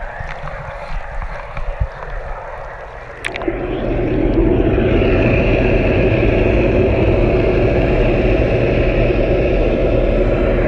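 Motorcycle riding noise through a helmet mic: quieter with a few clicks at first, then about three seconds in the engine and wind noise swell into a loud, steady drone. Under it runs a repetitive hum, the same tone all the time, that the rider blames on the GoPro Hero 4 and calls helicopter noise.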